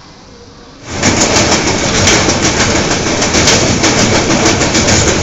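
Passenger train running over a steel truss bridge: loud rumble with wheels clattering on the rail joints in a dense, irregular string of clicks. It cuts in suddenly about a second in, after quieter station background.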